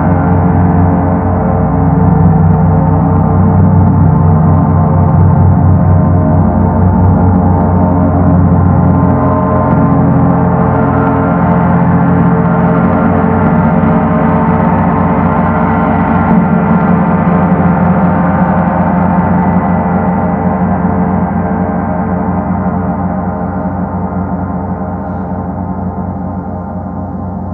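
Paiste Sedna planet gong sounding with a dense, rumbling wash of overtones, its low tones pulsing. It holds steady, then slowly fades away over the last several seconds.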